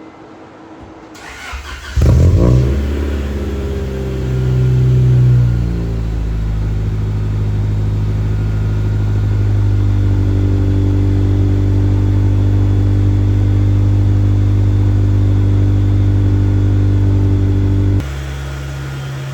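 Car engine cranked and catching about two seconds in, flaring up and then settling, with a brief rev and then steady idle. Near the end the engine sound drops noticeably in level.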